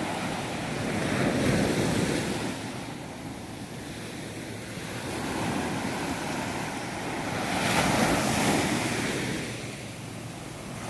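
Sea surf washing onto a beach, swelling twice, about a second and a half in and again about eight seconds in, with wind on the microphone.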